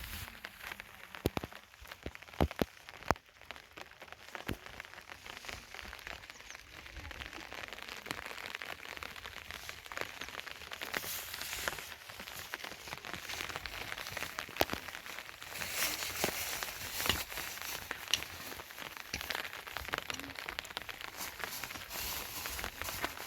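Rain falling, a steady hiss full of fine sharp ticks of drops, with a few louder knocks about two to three seconds in.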